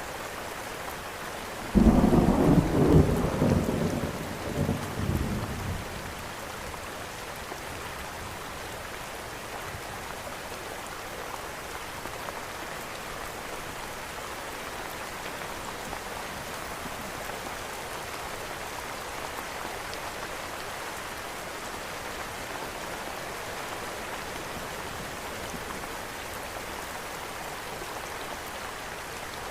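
Steady rain, with a sudden clap of thunder about two seconds in that rumbles and fades away over about four seconds.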